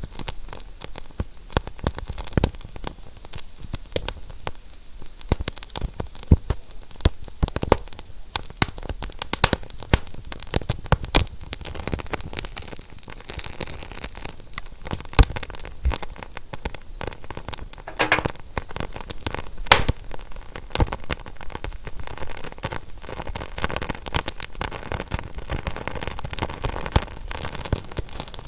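Wood fire crackling, with frequent irregular sharp pops and snaps over a steady hiss, and a brief hiss partway through.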